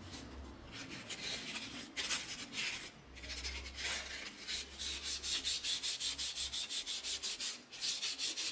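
Fine 400-grit sandpaper rubbed lightly by hand over the scratched cylinder sleeve of an air-suspension compressor to smooth out the scratches. The strokes are scattered at first, then from about halfway in settle into quick, even back-and-forth strokes, about five a second.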